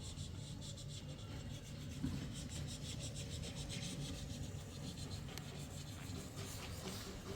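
Fast, rhythmic scraping or rubbing strokes, several a second, over a steady low rumble.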